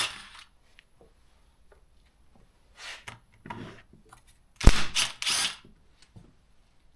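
Clicks and clatter of hand tools and plastic parts as the carburettor cover of a Stihl MS200T chainsaw is unbolted with an 8mm and taken off, with a few short scraping rattles and one louder knock and rattle a little past halfway.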